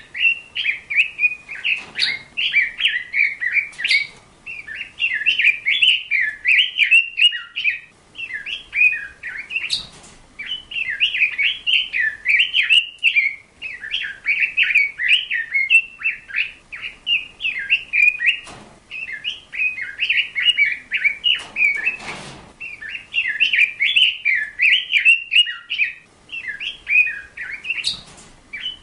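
A bird chirping and twittering almost without pause in quick, rapid phrases, with a few faint knocks now and then.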